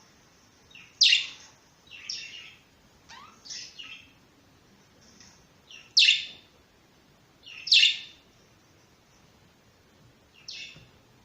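Budgerigars chirping: a string of short, sharp, high calls spaced a second or so apart, the loudest about a second in, near the middle and shortly after.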